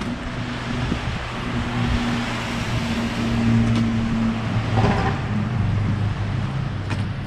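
Road traffic: a vehicle engine runs steadily with a low hum, and passing traffic noise swells through the middle.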